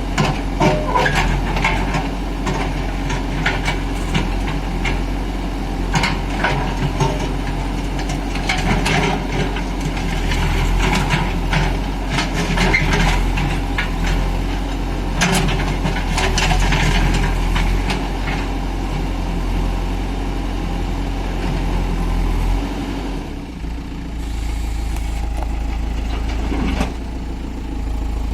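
Heavy diesel machinery engine running steadily, with frequent sharp metallic clanks and knocks during roughly the first two-thirds, then steadier running.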